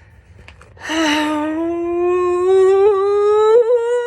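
A woman's voice humming one long note. It starts about a second in and slowly rises in pitch for about three seconds before cutting off.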